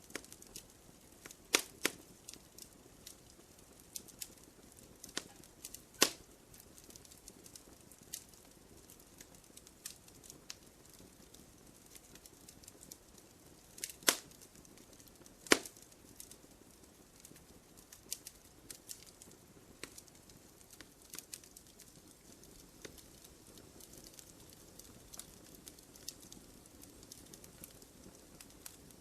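Wood fire in a fireplace crackling: scattered small ticks and a handful of louder sharp pops over a soft low hiss.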